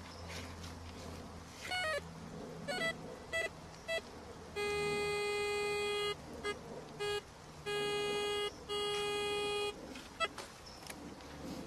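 Metal detector sounding its target tone: a few short electronic beeps, then three long steady beeps of the same middle pitch with brief blips between them, as it is swept over a target in a dig hole.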